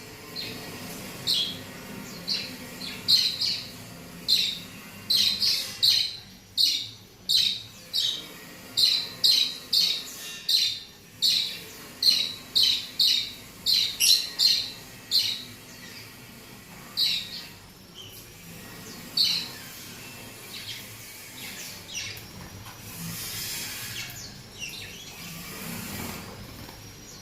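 Small pet parrots giving short, sharp, high calls, about two a second at first, then thinning out after about fifteen seconds. A brief hiss follows later.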